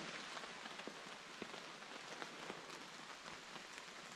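Steady light rain falling on forest foliage: a faint, even hiss with a few scattered drops ticking.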